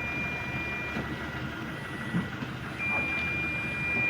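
A vehicle's electronic warning buzzer sounding a steady high tone. It cuts off about a second in and comes back near the end, over a low mechanical rumble.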